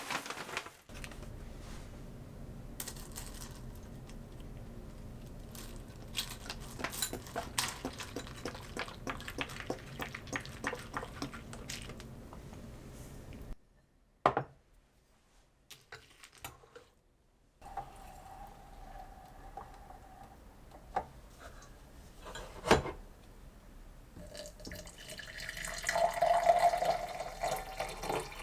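Household sounds in a small room: water dripping and running, with many small clicks and clinks and one sharp knock. A short steady tone is heard twice in the later part.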